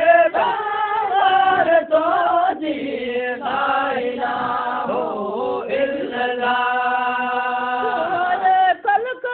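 Voices chanting a Sindhi moulud, a devotional song in praise of the Prophet, in drawn-out melismatic phrases. A long steady held note runs for about two and a half seconds near the end.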